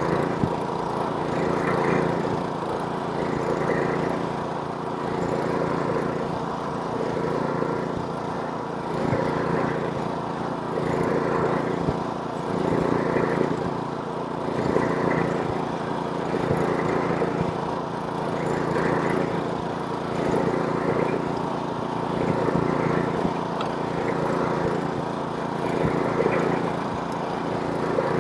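Gas snowblower's small engine running steadily while it throws snow. The sound swells and eases about every two seconds.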